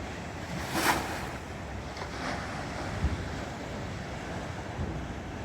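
Sea waves crashing against a concrete break wall over steady surf, with one loud splash about a second in and a smaller one about two seconds in. Wind buffets the microphone with low thumps.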